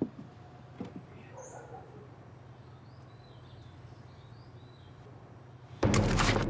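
Quiet outdoor ambience with faint bird chirps and a few soft knocks. Near the end a sudden loud, harsh noise cuts in.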